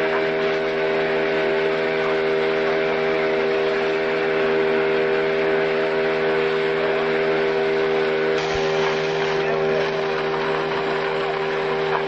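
An engine running steadily at one constant speed, a loud even drone.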